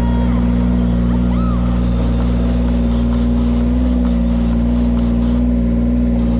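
Engine of a firewood-splitting machine running steadily at a constant pitch.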